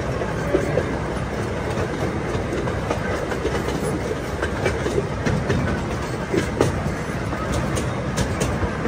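Zoo train rolling along its track, heard from aboard: a steady rumble with irregular clicks and knocks from the wheels and cars, more frequent in the second half.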